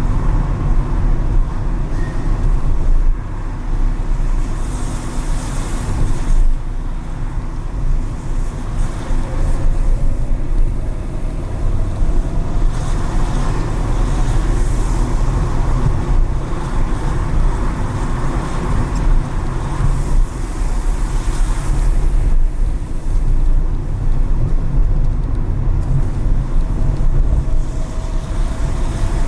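Car driving through city traffic: a steady low engine and road rumble, with tyre hiss swelling several times and the engine pitch rising slowly now and then as it gathers speed.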